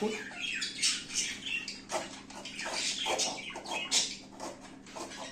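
Cardboard egg tray being cut by hand, a run of short scratchy cuts and rustles, with small high squeaky calls of zebra finches mixed in.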